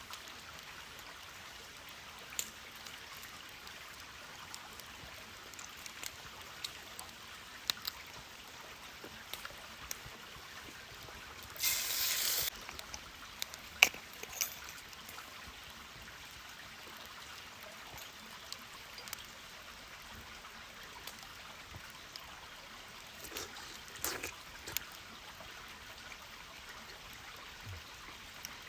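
Campfire crackling: a steady soft hiss with scattered pops and clicks, and a brief louder hiss about twelve seconds in.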